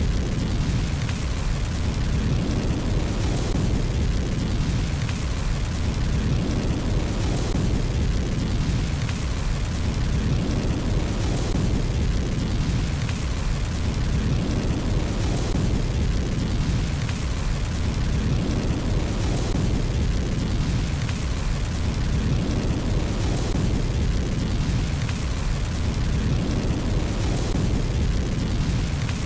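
Fire burning in a fireplace: a steady low roar with faint crackles recurring every couple of seconds.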